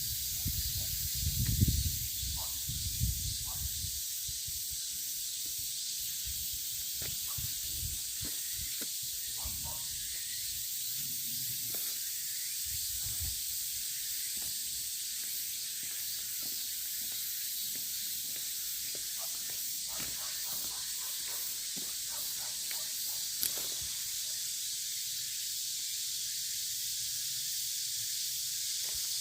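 Steady high-pitched hiss of outdoor ambience, with a few low buffets in the first few seconds and scattered light clicks and rustles.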